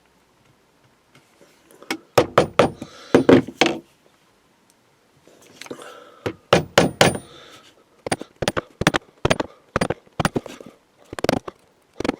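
Wood chisel chipping out a recess in a wooden block: sharp knocks in two quick clusters, then a run of single strikes about two to three a second near the end.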